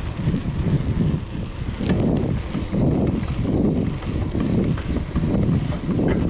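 Wind buffeting the microphone of a ride-mounted action camera while riding, in uneven low gusts.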